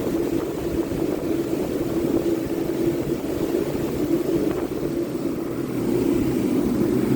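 Power sander running steadily on a wooden top, with a continuous motor hum. It gets slightly louder about six seconds in.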